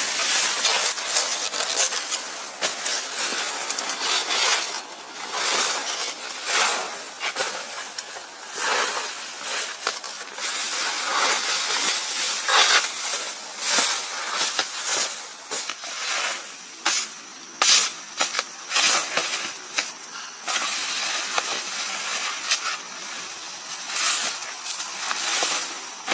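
Irregular rustling and scraping, broken by many short crackles and scrapes in uneven runs.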